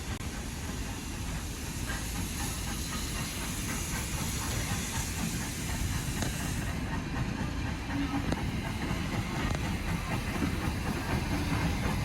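Steam locomotive hissing steam in a steady rush, its high hiss easing about seven seconds in.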